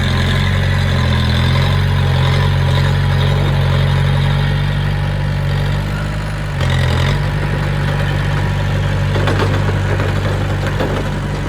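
Heavy diesel engine of a dump truck or bulldozer running steadily at low revs, with a brief change in its note about six and a half seconds in.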